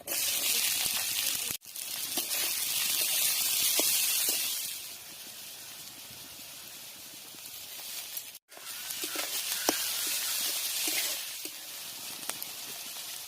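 Chicken sizzling as it cooks, a steady hiss with scattered crackles and pops. It breaks off briefly twice, about a second and a half in and about eight and a half seconds in, and is louder in the first few seconds.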